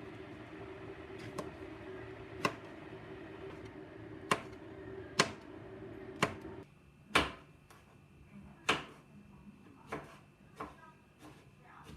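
Sharp knocks and clicks of household objects being handled and set down, about one every second or so, over a steady appliance hum that cuts off about halfway through.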